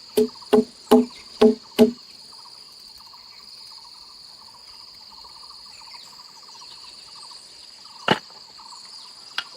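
Rapid tool blows on wood, each a sharp knock with a short hollow ring, about two and a half a second, stopping about two seconds in; two single blows follow near the end. Insects trill steadily behind them.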